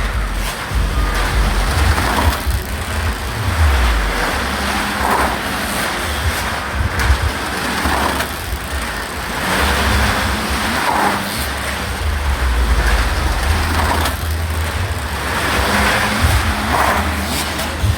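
Motorcycle engine running hard as it circles the Wall of Death drome, the sound swelling and fading about every two seconds as the bike passes on each lap.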